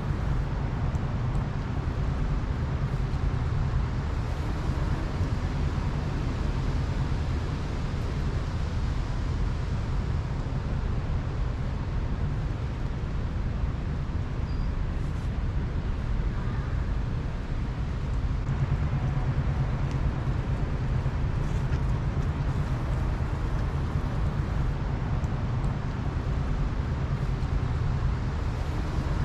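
Steady low outdoor rumble of city ambience, with the hum of distant traffic and no distinct events.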